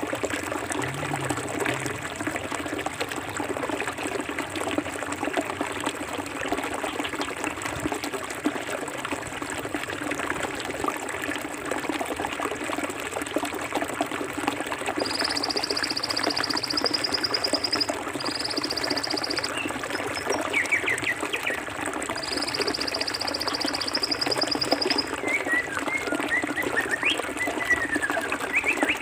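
Forest stream water flowing and trickling steadily. From about halfway, three high trills of two to three seconds each and a few short chirping calls join it.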